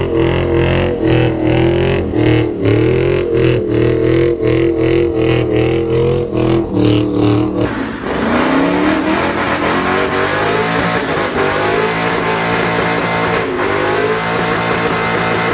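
Ford Mustang engine held at high revs during a burnout, its note pulsing about three times a second. About eight seconds in, the sound cuts to another Mustang revving with a climbing pitch, then running hard and unsteadily through a second burnout.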